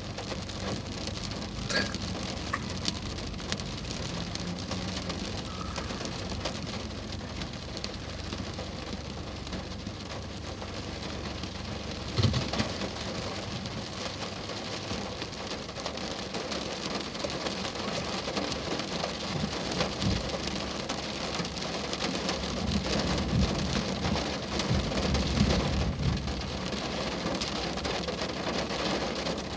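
Steady heavy rain falling, with a single sharp crack about twelve seconds in and a low rumbling that swells in the last several seconds.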